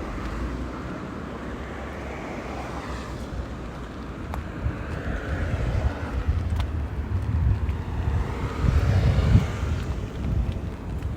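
Vehicles passing on a wet road, their tyre hiss swelling and fading several times, with wind buffeting the microphone.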